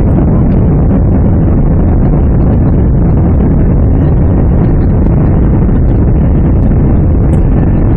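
Loud, steady engine and airflow noise heard inside the cabin of a Boeing 767-300 at takeoff thrust, during the takeoff.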